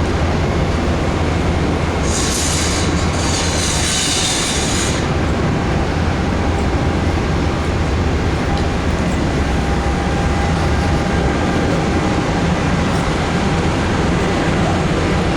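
Amtrak Southwest Chief train standing at the station platform, its diesel locomotives running with a steady low rumble. About two seconds in comes a loud hiss of air, in two parts, lasting about three seconds.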